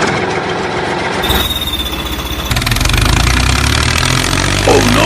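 Tractor-type engine running steadily, with the sound changing abruptly twice: a brief high steady tone about a second in, then a deeper steady engine hum from about two and a half seconds in.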